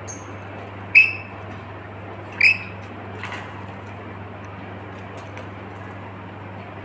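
A bird giving two short, sharp squawks about a second and a half apart, then a fainter call, over a steady low hum.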